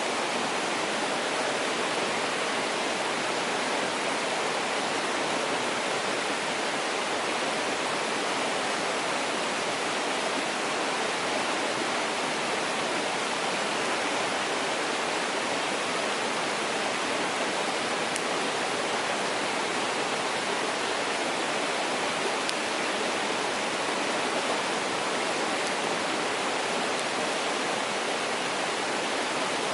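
Mountain stream rushing steadily over rocks, an even, continuous water noise.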